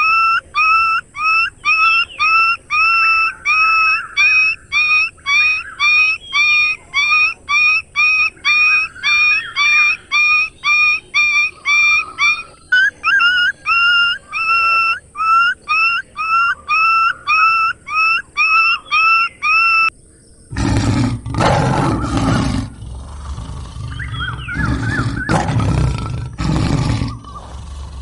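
An animal's short, high call repeated evenly about twice a second, then, about 20 seconds in, a big cat roaring and growling in rough, low rumbles.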